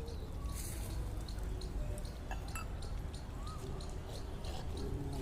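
Stray dogs eating, with irregular small crunches and clicks of chewing over a steady low outdoor rumble.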